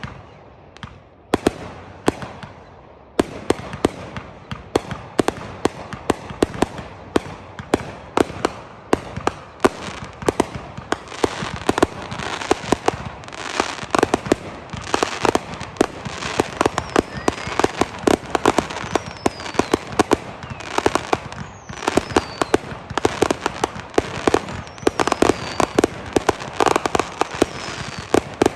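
Consumer-show fireworks: a few separate bangs, then from about three seconds in a continuous rapid barrage of shell bursts and crackle, the dense closing finale of the display.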